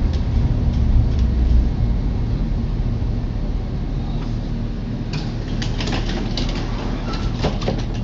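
Low, steady rumble of a vehicle in motion, heard while riding. From about five seconds in it is joined by a run of sharp clicks and rattles.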